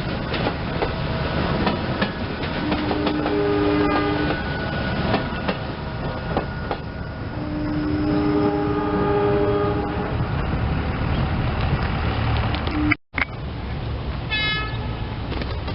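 SEPTA Silverliner II electric commuter train running past, wheels clicking over rail joints, sounding its horn in two blasts, the second longer. Near the end the sound cuts out for an instant and a brief higher tone follows.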